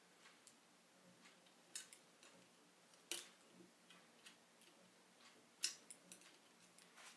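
A few scattered sharp clicks and light taps over a quiet background, the loudest one a little past five and a half seconds in.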